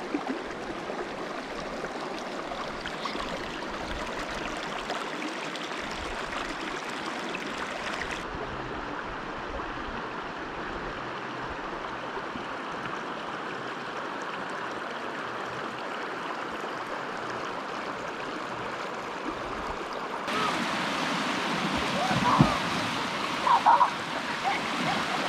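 River water flowing over rocks, a steady rush whose character changes abruptly about 8 seconds and 20 seconds in. A few brief voices come through near the end.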